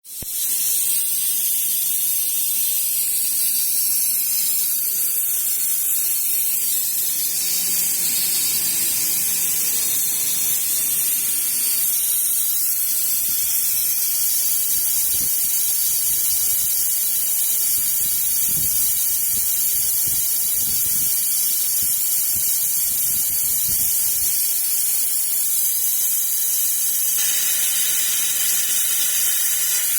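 Steady hiss from a laser glass-drilling machine at work, holding level throughout.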